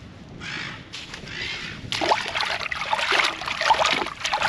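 Harsh bird calls, followed from about two seconds in by a louder, denser run of clicks and clattering.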